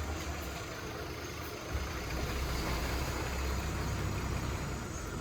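Heavy diesel earthmoving engine running steadily at low revs, the rumble picking up a little about two seconds in.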